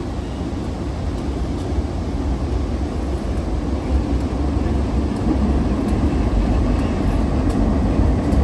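Train rolling along the track, a steady low rumble that grows a little louder, with faint light clicks.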